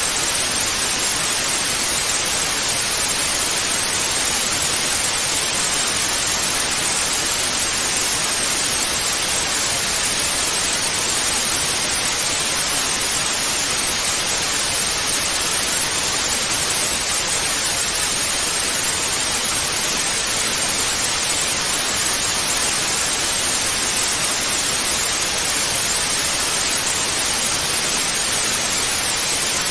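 Analogue TV static hissing steadily, an even rushing noise strongest in the upper range, with no breaks or changes.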